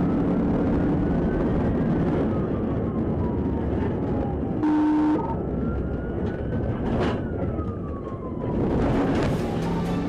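Police car siren wailing, slowly rising and falling in pitch twice, over steady engine and road noise, with a short horn-like blast about halfway through.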